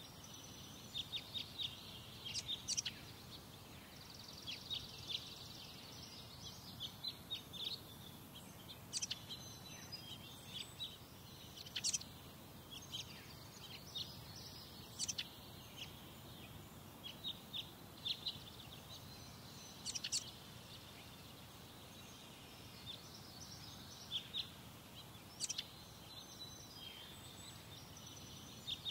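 Birds calling: short, sharp, high chirps in scattered clusters every second or two, with a quick rattling trill about four seconds in, over a faint steady low background rumble.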